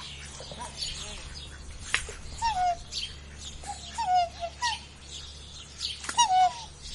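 Recorded bird calls played as the swan's sound: short falling calls, several times, most strongly about two and a half, four and six seconds in. High chirps from small birds run throughout over a steady low hum.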